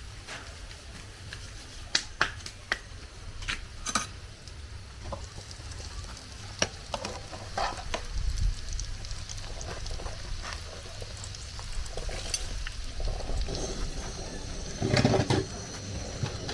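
Cooking sounds: scattered clicks and knocks of utensils being handled over a steady, noisy background of frying or stirring.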